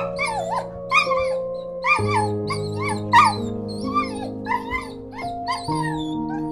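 An animal giving a quick series of short, high, yelping calls, about two a second, over steady background music.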